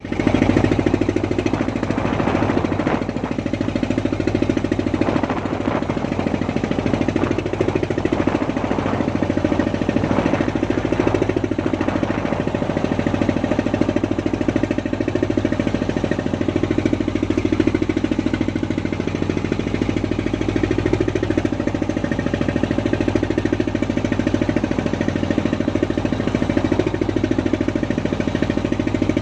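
A fishing boat's engine running steadily with a fast, even knocking beat.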